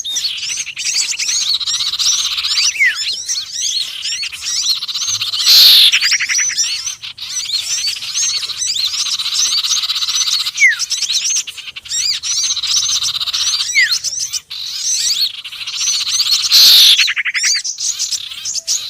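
Bird-lure recording mixing the calls of small songbirds (sirtu, konin and sepah raja): a dense, unbroken chatter of high, rapid chirps. Short falling whistles come now and then, and a louder buzzy call twice, the whole pattern repeating about every eleven seconds as a loop.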